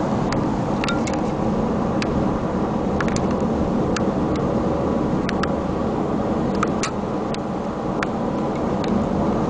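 Steady low rumble of a vehicle driving on the road, with scattered sharp clicks and rattles.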